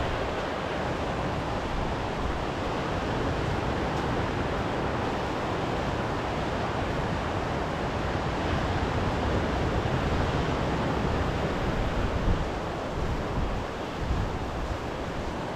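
Waves washing onto a sea beach in a steady surf, with wind rumbling on the microphone.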